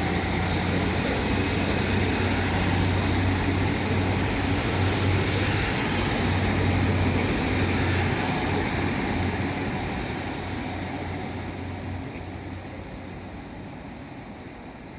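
Passenger train running, heard from inside the carriage: a steady low hum under rumbling wheel and track noise. It fades gradually over the last several seconds as the train slows on its approach to a station.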